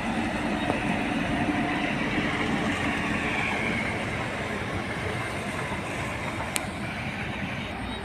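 A big truck driving past on the road: steady engine and tyre noise that eases off a little in the second half, with one short click near the end.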